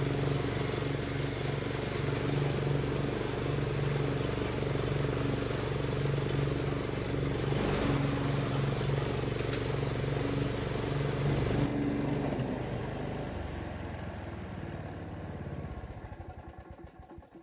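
Riding lawnmower's petrol engine running steadily, with no exhaust banging, after its exhaust pipe was welded. About twelve seconds in it is shut off and coasts down with slowing strokes to a stop near the end.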